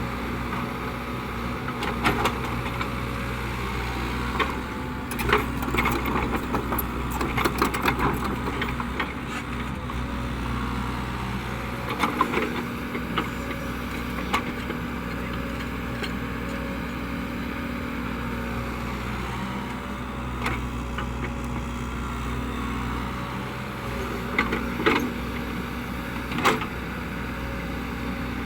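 Caterpillar 307E2 mini excavator's diesel engine running steadily under working load, with scattered knocks and clatters, in a cluster a few seconds in and again near the end.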